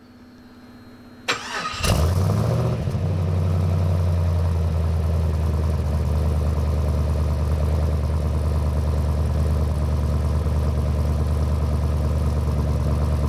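Twin-turbo LS V8 in a Toyota 80-series Land Cruiser being cranked on the starter for about half a second, catching with a brief flare about two seconds in, then settling into a steady, deep idle. It runs well now that the MAP sensor and boost line are plugged back in.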